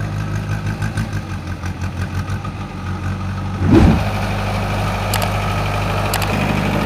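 Diesel engine of a JCB 3DX Eco backhoe loader idling steadily. About four seconds in a sudden loud thud comes, and the engine then runs louder.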